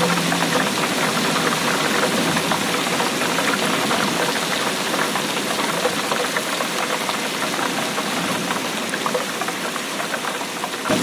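Steady rainfall, a dense patter of drops hitting a surface.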